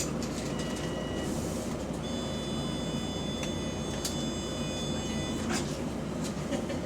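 Double-decker bus heard from inside the passenger saloon, a steady low engine and running drone, on a bus with an exhaust leak. About two seconds in a high steady tone joins and holds for roughly three and a half seconds before stopping.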